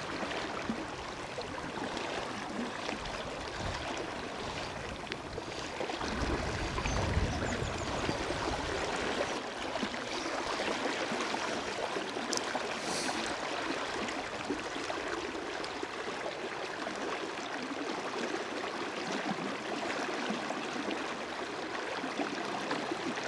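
River water running steadily. About six seconds in, a low rumble of wind on the microphone swells and fades.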